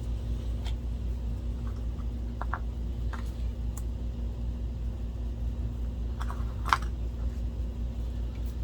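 Light clicks and taps of small projector parts being handled and fitted back together, with one sharper click near the end, over a steady low hum.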